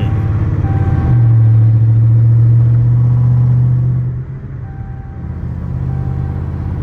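Car engine and exhaust droning steadily in the cabin while driving, stepping up louder about a second in and easing off about four seconds in.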